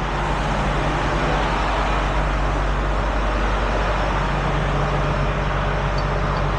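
A truck's engine running steadily with a constant low hum.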